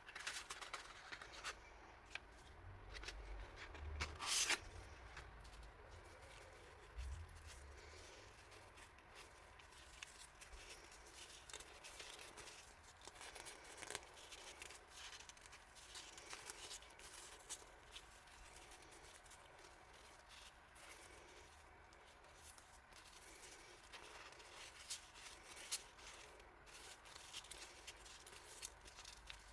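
Faint rustling, small clicks and light taps of hands handling paper and plastic packaging, with a louder rustle about four seconds in and a few soft thumps early on.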